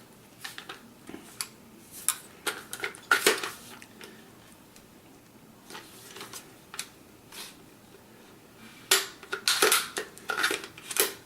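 Plastic and metal parts of an airsoft electric rifle clicking and rattling as it is handled, with a louder run of clacks near the end.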